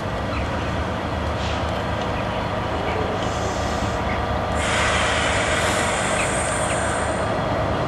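Wrexham & Shropshire locomotive-hauled passenger train running into the station to call, a steady rumble of engine and wheels on the rails. A little past halfway a louder, higher hiss joins in as the train draws closer.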